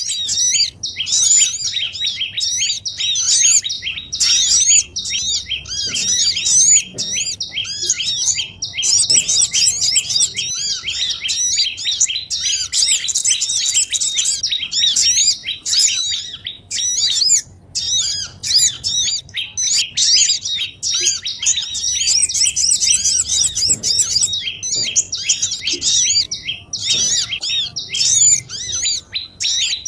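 Bird-lure recording of a noisy crowd of small songbirds, sogon, prenjak and other small birds, chattering excitedly all at once. The calls are rapid, high-pitched, overlapping chirps and twitters with hardly a break.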